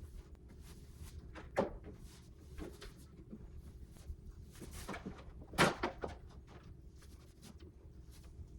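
Irregular light knocks and clicks, with two louder knocks about one and a half seconds in and again around five and a half seconds, over a low steady hum.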